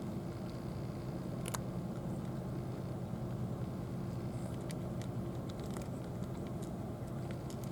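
A steady low engine hum, like a motor idling, with a few faint scattered clicks over it.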